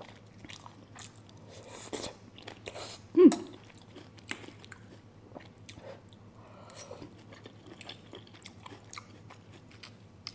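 Close-up chewing and biting: soft wet mouth clicks and smacks as a person eats noodle soup with prawns. One brief louder sound, falling in pitch, about three seconds in.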